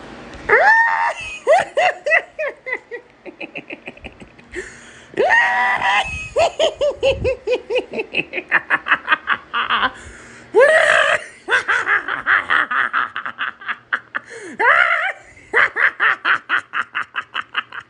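Loud, high-pitched laughing in about four bouts. Each bout opens with a drawn-out whooping cry and runs on into a fast string of short 'ha' pulses that fall in pitch.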